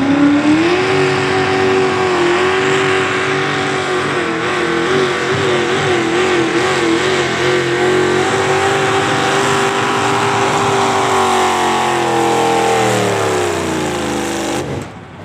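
A pulling tractor's engine at full throttle under load: the revs climb as it launches, hold high with the pitch wobbling as the tractor bounces, then sag as the sled pulls it down to a stop, and the engine cuts off suddenly near the end.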